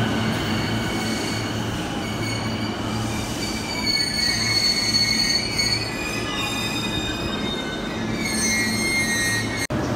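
Chuo Line E233-series electric commuter train pulling into the platform: a steady low rumble under high-pitched squealing as it slows. The sound drops out for an instant near the end.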